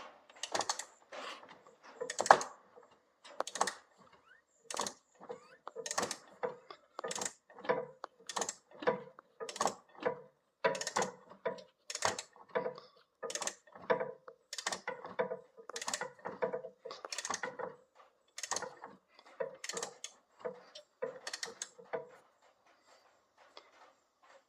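Hand ratchet wrench worked back and forth, with a short burst of clicking on each stroke, a little under two strokes a second, stopping near the end.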